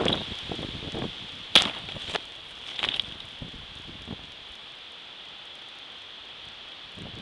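Storm wind gusting through trees and rustling leaves. It is punctuated by a few sharp cracks, the loudest about a second and a half in and another near three seconds.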